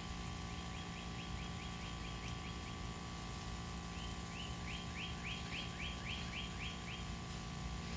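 A bird singing two phrases of quick, evenly repeated descending chirps, about five a second, the second phrase louder and longer. Under it runs a steady mechanical hum.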